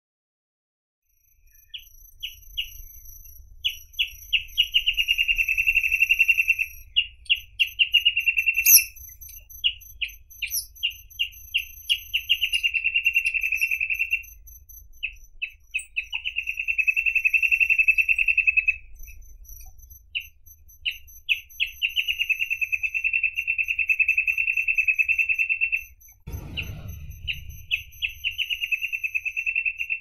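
Reed parrotbill singing. About six repeated phrases, each a run of short separate notes that speeds up into a steady high trill held for a few seconds, with short pauses between. A faint low rumble runs underneath, and there is a brief thump near the end.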